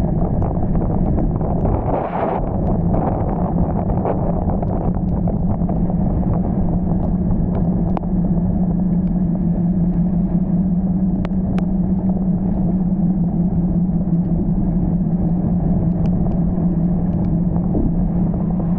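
Car running with a steady low hum over a rumble, with a few faint ticks.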